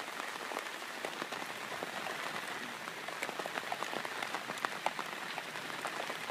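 Heavy rain falling: a steady hiss of rain dotted with many sharp drop strikes.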